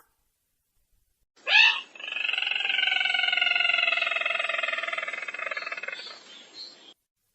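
Recorded call of the sintar merah bird played as a lure: a short rising note, then a long, fast, rattling trill that slowly drops in pitch and fades away.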